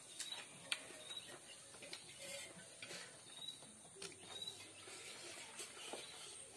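Faint mouth sounds of eating: chewing with small wet clicks and lip smacks, now and then a light tap of fingers on a metal plate.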